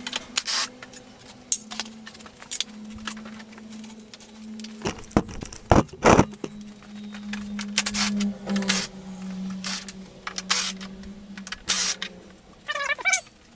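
Irregular clicks, knocks and scrapes of hands and tools working on a GY6 scooter's plastic body panels, with two louder knocks about five to six seconds in, over a steady low hum. A cat meows near the end.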